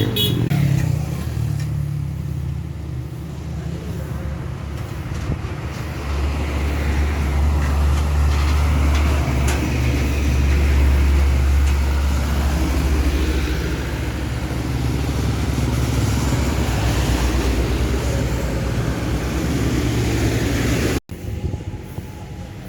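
Heavily loaded truck's engine running with a deep, steady drone that grows louder about six seconds in. Near the end it cuts off abruptly and quieter vehicle sound follows.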